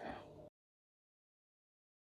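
Near silence: a faint trace of room noise for about half a second, then the sound cuts out completely.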